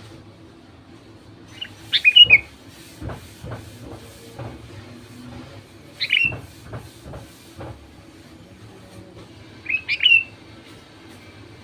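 Sooty-headed bulbul singing short, bright phrases, three times about four seconds apart, with a few soft knocks in between.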